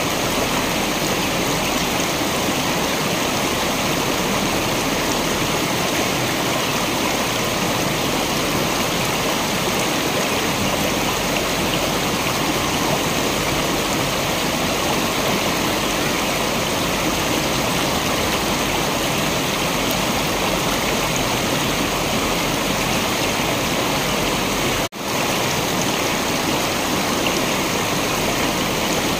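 Steady rushing water of a waterfall, an even, unbroken roar that drops out for an instant near the end.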